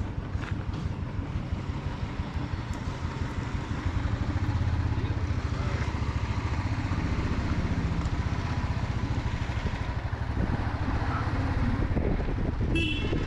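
Motorcycle engine running on the move, its low, rapid firing pulses growing louder about four seconds in.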